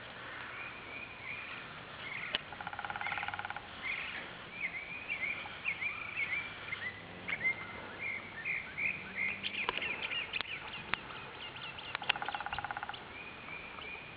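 Songbirds chirping and twittering in many short, quick notes, with a buzzy rattling call twice, about three seconds in and again near the end. A few light clicks.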